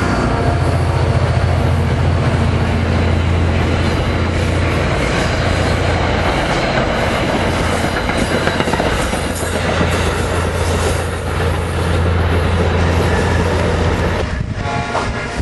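Diesel-hauled commuter train passing close by: a steady low engine drone over the rumble and clatter of wheels on the rails, dropping off about fourteen seconds in.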